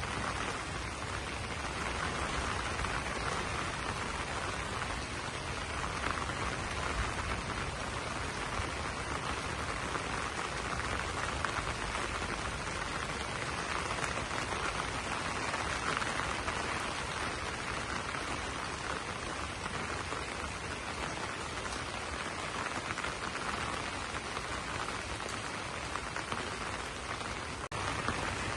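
Steady rain falling on broad banana leaves, an even hiss of drops with no let-up.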